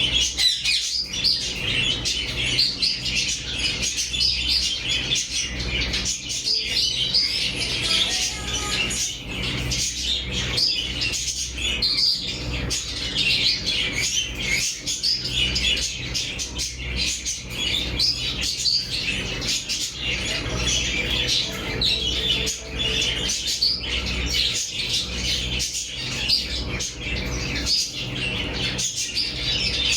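A flock of caged parrots and budgies chattering and chirping continuously, many birds calling over one another, over a low steady hum.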